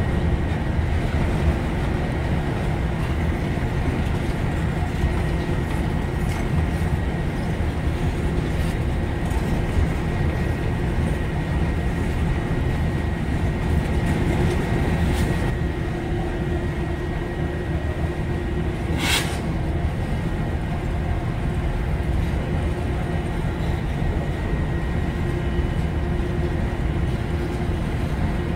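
Freight cars rolling past on the rails: a steady rumble of steel wheels on track, with a faint steady whine above it and one sharp clank about two-thirds of the way through.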